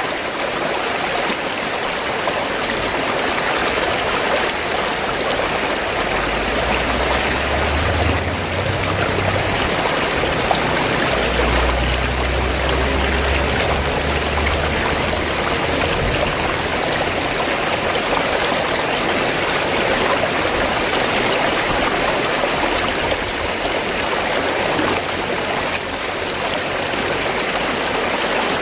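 Fast-flowing stream, water gurgling and rushing steadily, with a deeper rumble for several seconds midway.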